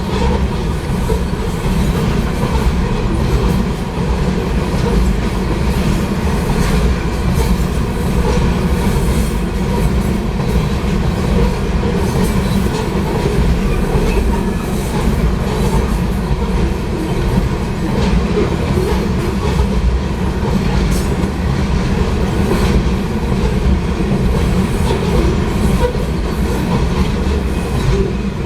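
Freight cars of a Union Pacific potash train rolling steadily past, their wheels clicking over the rail joints amid a continuous rumble.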